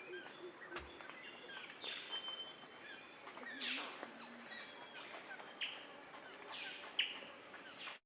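Birds giving several sharp, downward-sweeping calls over a steady, high insect trill; the sound cuts off abruptly at the end.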